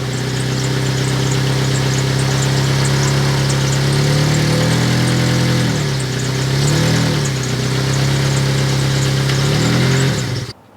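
2003 Honda Element's 2.4-litre four-cylinder engine running with an exhaust leak, idling steadily with a few short throttle blips, the clearest about seven seconds in. The sound cuts off abruptly just before the end.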